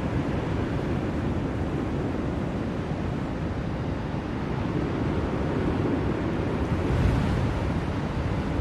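Steady blizzard wind, a deep rushing noise that swells and eases slightly, growing a little stronger about seven seconds in.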